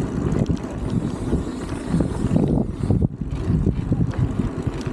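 Strong wind buffeting the microphone: a low, gusting rumble that swells and falls, with faint light ticks above it.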